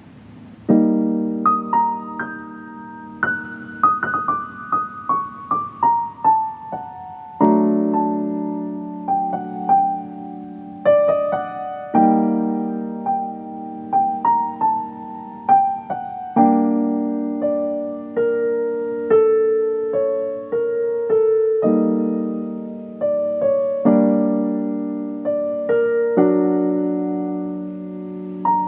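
Solo piano music: a slow melody over sustained chords, each note struck and left to ring out.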